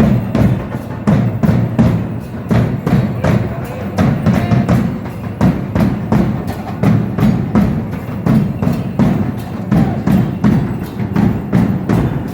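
Drum-led percussion accompanying a traditional Mexican danza, beaten in a steady, even rhythm of about three strokes a second.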